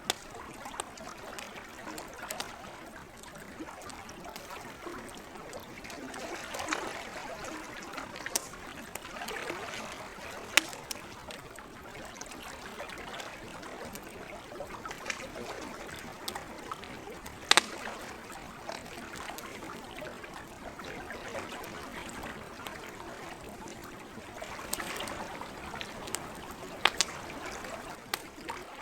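Lake water lapping and trickling steadily, with a campfire's burning wood giving scattered sharp pops and crackles every few seconds. The loudest pop comes about two-thirds of the way through.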